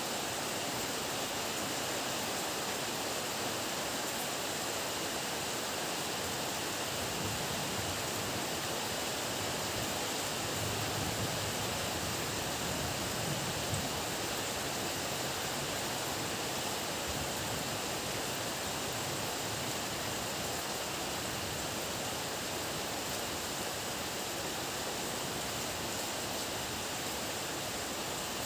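Steady heavy downpour of rain, an even dense hiss, with a brief low swell near the middle.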